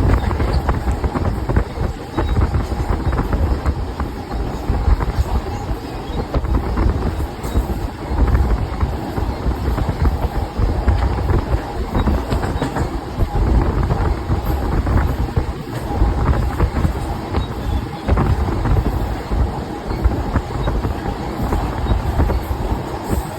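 Train running on rails: a steady low rumble with frequent knocks of the wheels over the track.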